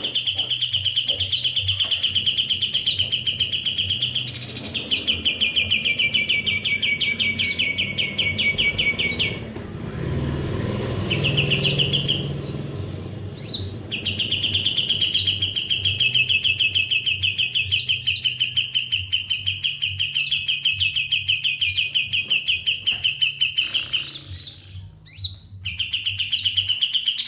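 Kapas tembak songbird singing long, rapid, machine-gun-like trills several seconds at a time, with a few short breaks. A steady high-pitched whine runs underneath.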